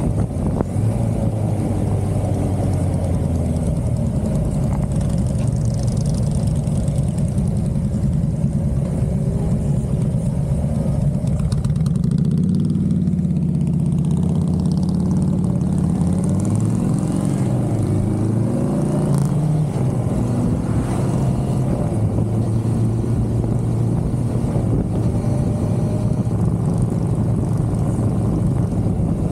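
A 1982 Suzuki GS550L's air-cooled inline-four engine running under way on the road. The engine note climbs in pitch around the middle and drops back a few seconds later.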